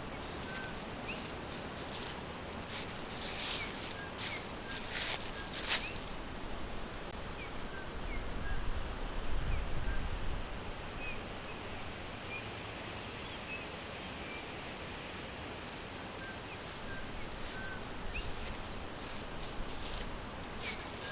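Forest ambience: small birds giving brief, high chirps scattered throughout over a steady hiss, with a few bursts of rustling between about two and six seconds in and a low rumble around the middle.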